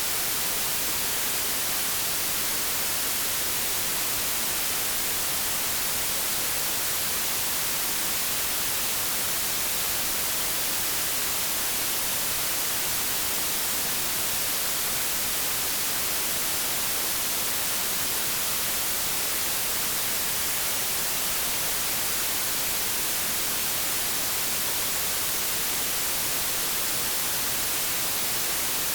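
Steady white-noise static, an even hiss across all pitches, brightest in the highs, with no change or break.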